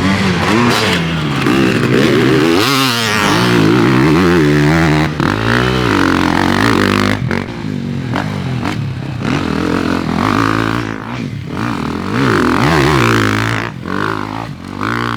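Dirt bike engine running on a motocross track, revving up and down over and over with repeated rises and falls in pitch and short drops between throttle bursts.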